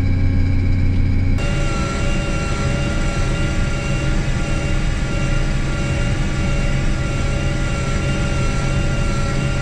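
Case IH 1660 combine's diesel engine running steadily with several high whining tones over it. The sound changes abruptly about a second and a half in.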